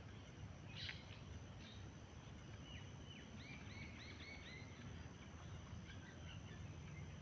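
Faint birdsong: scattered chirps, with a quick run of about six repeated notes about three and a half seconds in, over a steady low background rumble.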